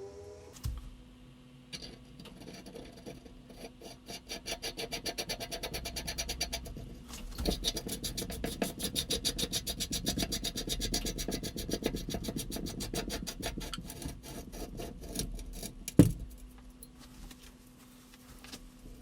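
Quick, even back-and-forth rubbing strokes, several a second, of a part being worked by hand with an abrasive tool. The strokes stop with one sharp knock near the end.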